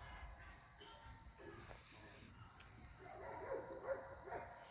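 An animal making a few short pitched calls, about three seconds in, over a faint steady high-pitched drone.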